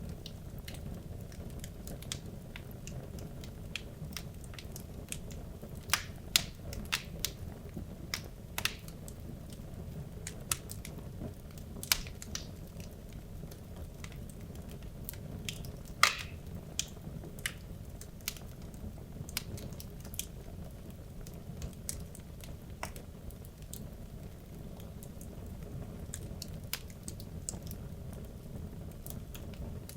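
Wood logs burning in a fireplace: a steady low rumble of flames with frequent sharp, irregular crackles and pops, a few louder pops around six, twelve and sixteen seconds in.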